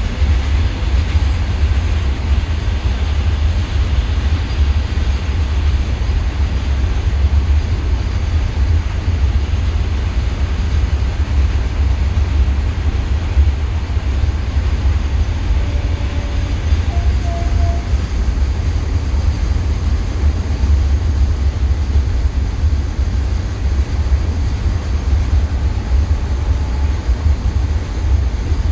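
Passenger train running steadily, a continuous rumble and rattle with a heavy low roar, heard from on board.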